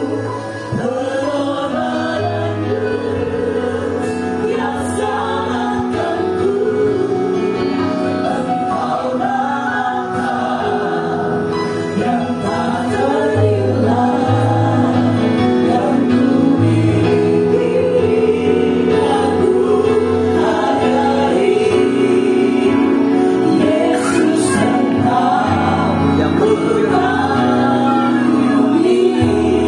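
A mixed choir of men and women singing a Christian hymn, with a bass line and keyboard accompaniment.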